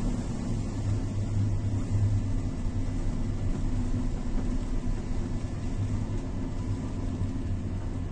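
Steady low rumble of running machinery, with a continuous droning hum.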